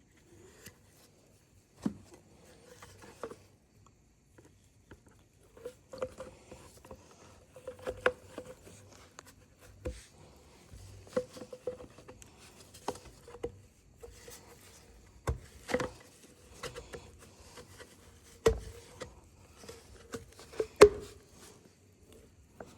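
Irregular clicks, taps and knocks of small tools and chainsaw parts being handled during a repair, with the sharpest knock near the end.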